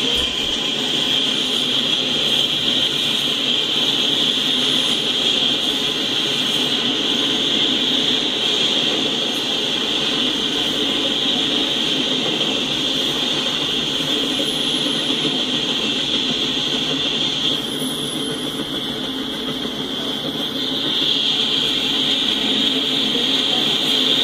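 Double-stack container train's well cars rolling past: a steady rolling noise of wheels on rails, with a continuous high-pitched ringing over it that drops away for a few seconds about three-quarters of the way through.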